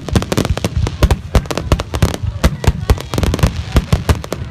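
Fireworks going off in a rapid, continuous barrage of sharp bangs, several a second.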